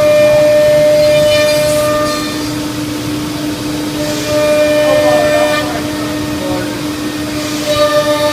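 C.R. Onsrud Panel Pro CNC router running with a steady, high-pitched machine whine. A louder, higher tone swells and fades about three times over it.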